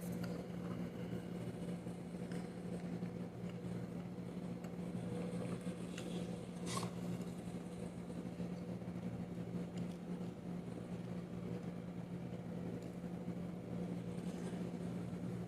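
Steady low machine hum, with a faint click about seven seconds in.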